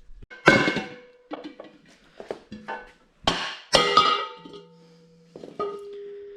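Metal wheel parts clanking together as they are handled, several sharp knocks with the loudest about half a second in and around three and a half seconds, each leaving a ringing tone that hangs on. The last clank near the end rings on as it fades.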